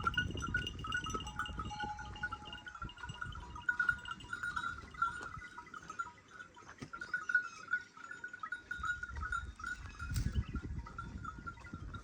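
Goats bleating in an overlapping chorus that never quite stops, with low rumbling at the start and again about ten seconds in.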